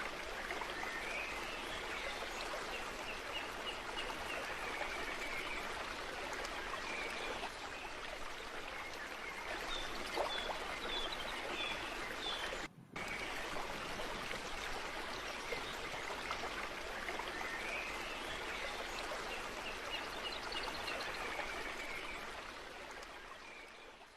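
A stream running steadily, with a bird singing a trilled phrase twice over it and a few chirps in between. The sound cuts out briefly midway and fades out at the end.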